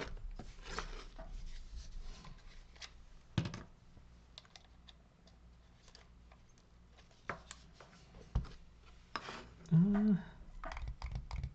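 Scattered light clicks, taps and scrapes of small handling, with a quicker run of clicks near the end. A man gives a short hum about ten seconds in.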